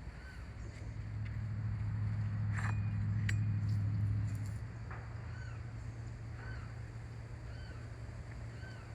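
A bird repeating a short chirp about every second, over a steady low hum that swells for a few seconds and then settles, with a couple of sharp clicks in the middle.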